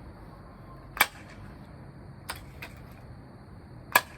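Sharp snaps from pellet guns. A loud one comes about a second in, a fainter one a little past two seconds, and another loud one near the end.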